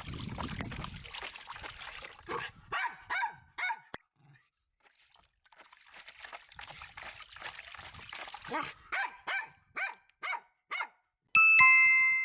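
Toy poodle barking in short, high yips, about four around two to four seconds in and a quicker run of about seven later, over a steady hiss of water. A bright two-note chime sounds near the end.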